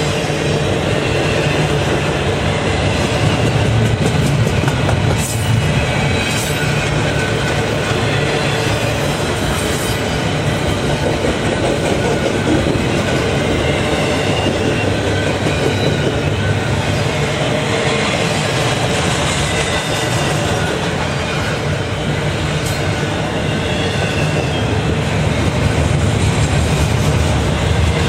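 A train rolling past at a steady pace, its wheels running on the rails in an unbroken loud rumble.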